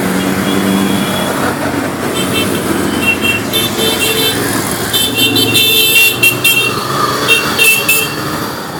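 A pack of motorcycles running, with horns tooting in short repeated blasts from about three seconds in.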